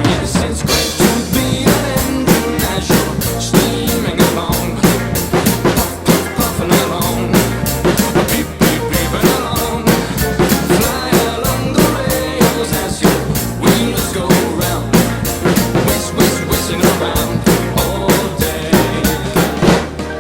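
Drum kit played along to a backing track of instrumental music, with snare, bass drum and cymbal strokes in a steady, fast beat. The music and drums start abruptly at the beginning.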